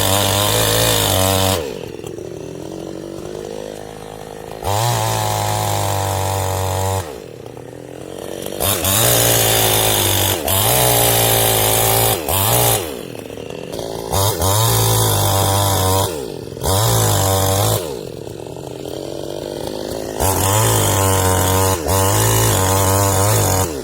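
New West 628 two-stroke chainsaw revved up to full throttle in stretches of a few seconds, dropping back to a lower engine speed between them, about six times over.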